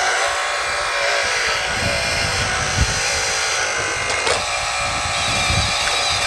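Electric hydraulic pump and motors of a 1/12-scale all-metal RC hydraulic excavator whining steadily as it works, its pitch shifting slightly with the load.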